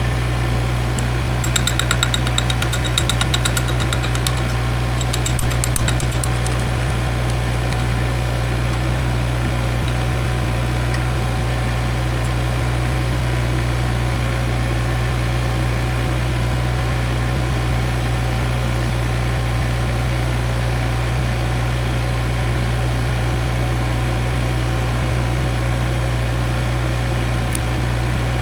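An engine running steadily at idle, a constant low hum. Short spells of fine crackling come over it during the first few seconds.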